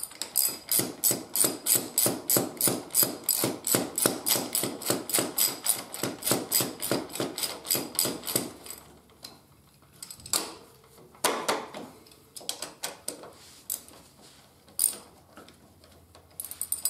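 Ratchet wrench clicking quickly and evenly, about five clicks a second, as a front brake caliper mounting bolt is wound in. The clicking stops about eight seconds in, and a few scattered clicks and knocks follow.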